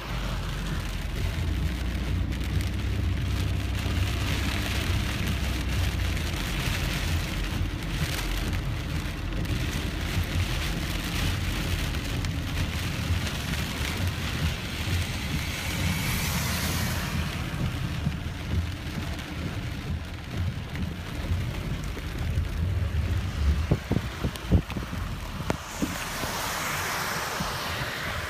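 Rain pattering on a car's windshield and body, heard from inside the cabin over a steady low rumble from the moving car. The rumble drops away about three-quarters of the way through, and a few sharp taps follow.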